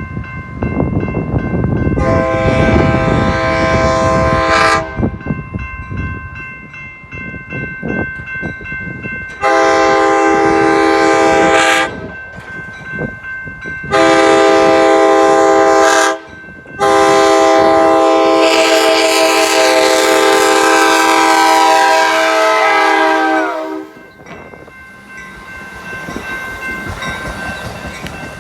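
Multi-chime horn of an Amtrak San Joaquin passenger train sounding four blasts, the last one long, with its pitch dropping near the end as the train goes past. The train's rumble and wheel noise run between the blasts.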